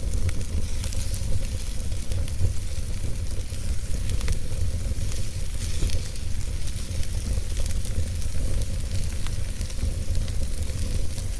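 Wood fire burning in a fireplace: a steady low rumble with a constant patter of small crackles and a few sharper pops.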